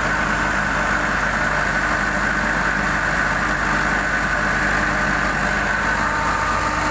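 Cummins QSB5 four-cylinder turbodiesel engine, a 100 kW hybrid-system unit, running steadily on a test run, with a steady high whine over the engine note.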